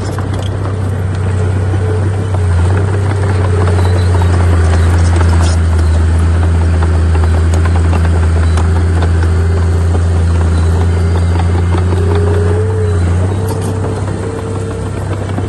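Heavy diesel engine of a bulldozer working under load, a steady deep drone that rises about two seconds in, holds, and eases off near the end.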